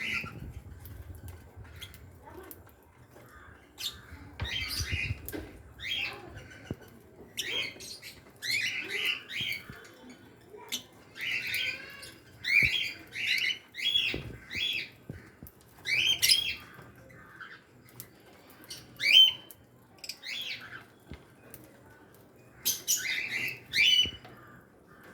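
A flock of lovebirds chattering in shrill, high-pitched squawks and chirps, coming in short bursts of several calls with brief pauses between.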